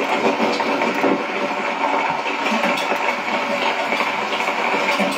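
Steady rain: an even hiss of falling rain, with a few faint drop ticks.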